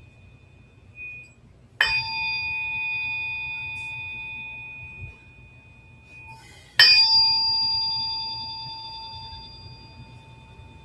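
A struck metal sound-healing instrument rung twice, about five seconds apart. Each strike rings on in a cluster of clear, steady tones that slowly fade.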